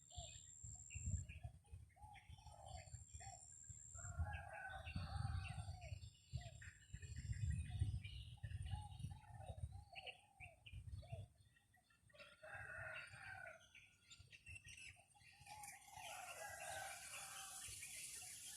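Junglefowl rooster calling and crowing in short repeated phrases, over wind rumbling on the microphone that gusts and eases.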